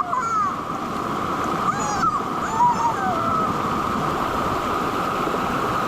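Mountain valley stream rushing steadily over rocks, with a few short high-pitched calls over it near the start and around two to three seconds in.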